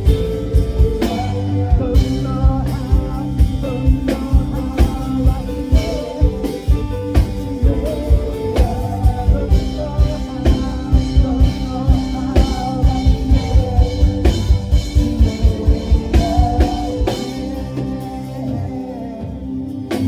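Worship song: singing over a band with a drum kit keeping a steady beat. The drums drop out about three seconds before the end, leaving sustained chords.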